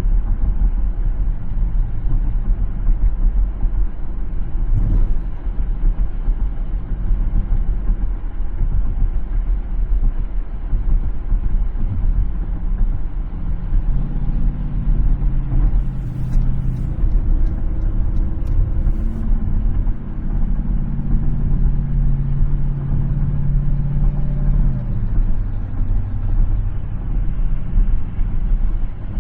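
Steady low rumble of a car driving on the road, with an engine hum that comes up about halfway through and shifts in pitch a few times before fading back into the rumble. A few brief sharp clicks sound near the middle.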